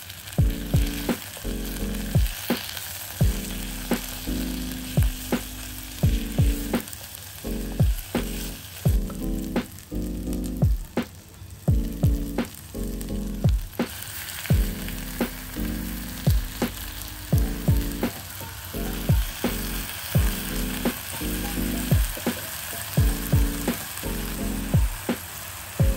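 Food sizzling and crackling in hot oil under background music with a steady beat. The sizzle thins out for a few seconds near the middle.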